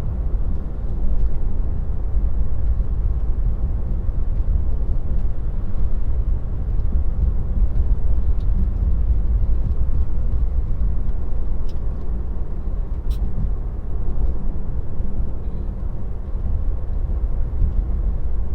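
Steady low road and tyre rumble inside the cabin of a Tesla electric car driving along, with no engine note, and a couple of faint ticks about two-thirds of the way through.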